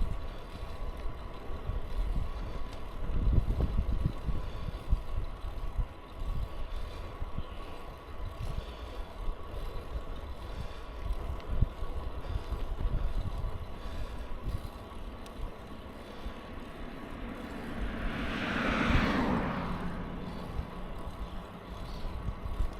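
Low rumble of wind and riding noise on a bicycle. Near the end a motor vehicle passes, swelling to a peak with its pitch dropping as it goes by, then fading.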